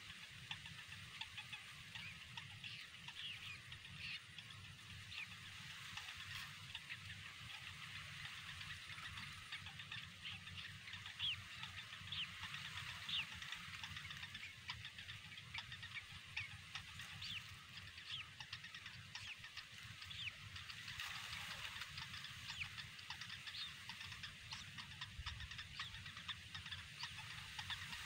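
Small birds chirping: many short, high-pitched calls, several a second, over a steady hiss and a low rumble.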